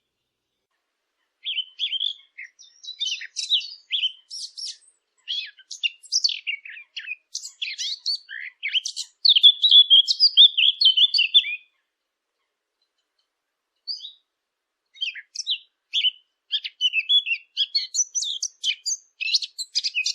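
Birds chirping and twittering in quick runs of high notes, starting about a second and a half in, with a pause of about two seconds around the middle.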